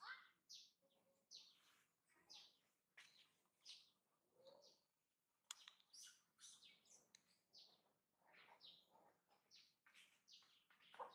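Faint birds chirping: a string of short, high notes, a few each second.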